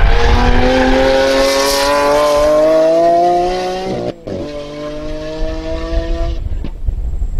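Lamborghini Aventador's 6.5-litre V12 with a Capristo exhaust accelerating hard, rising in pitch for about four seconds. About four seconds in it cuts out briefly and drops in pitch on an upshift, then pulls again, rising before fading as the car drives away.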